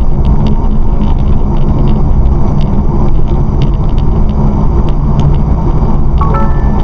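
A car driving at road speed as heard through a dashcam: a steady low rumble of road and engine noise, with scattered light clicks.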